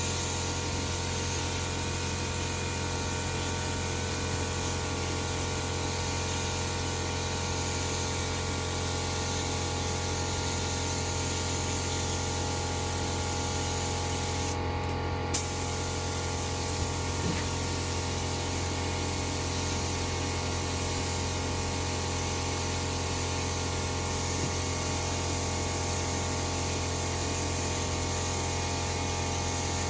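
Mini air spray gun hissing steadily as it sprays paint. The hiss stops for under a second about halfway through, then picks up again. A steady low hum runs underneath.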